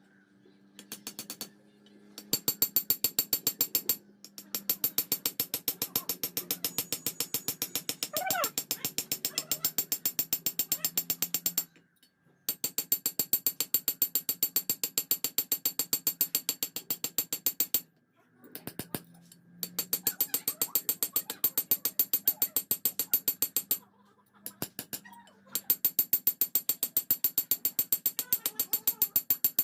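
Rapid, even metal-on-metal striking, about six blows a second, in runs of several seconds broken by short pauses. A short rising-and-falling chirp comes about eight seconds in.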